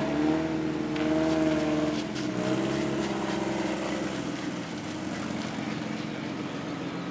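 A car engine running nearby, its revs rising and falling gently for the first few seconds, then settling to a steady idle.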